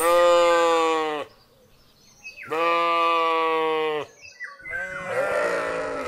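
Sheep bleating: two long, even-pitched bleats of over a second each, then a rougher, noisier bleat near the end.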